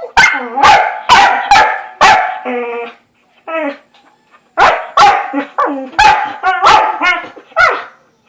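Dog barking repeatedly during play, in two runs of quick loud barks with a short lull in between.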